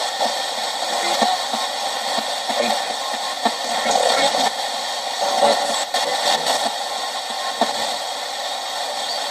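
Spirit box radio scanning rapidly through stations: a steady hiss of static broken by short clicks and brief fragments of sound as it jumps from channel to channel.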